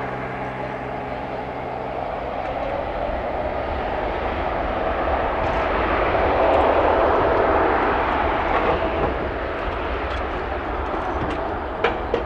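Jet engine noise from a Boeing 747-8F freighter with four GEnx-2B engines, a steady rushing noise that swells to its loudest about halfway through and then eases. A single sharp click near the end.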